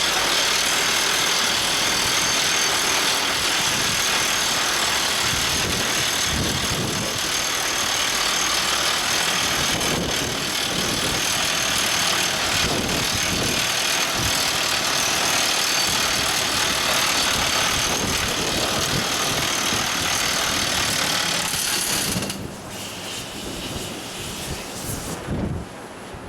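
Everdigm ECD45E top hammer drill rig running with a loud, steady mechanical din that reaches into a high hiss, dropping suddenly to a much quieter sound near the end.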